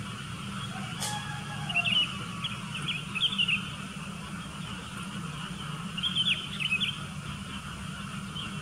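Sooty-headed bulbuls calling in two bursts of short, quick chirps, about two seconds in and again about six seconds in, over a steady low hum.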